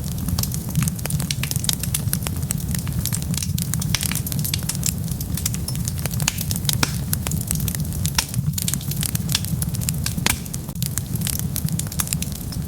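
Wood fire burning with a steady low rumble and frequent sharp crackles and pops from the burning logs.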